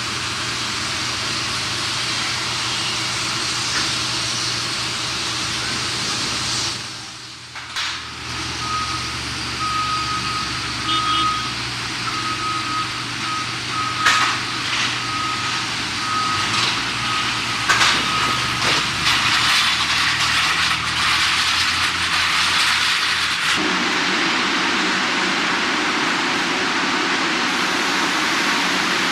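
Steady rushing noise of aircraft engines running on the apron, with a ground vehicle's reversing alarm beeping over and over for about ten seconds in the middle.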